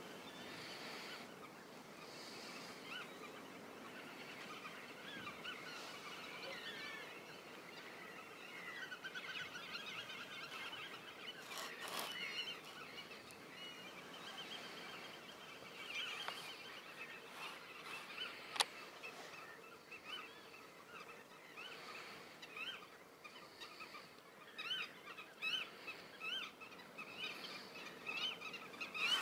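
Several wild birds calling and singing at once, a mix of short chirps and trills, with a run of quick repeated calls near the end. A single sharp click stands out about two-thirds of the way through.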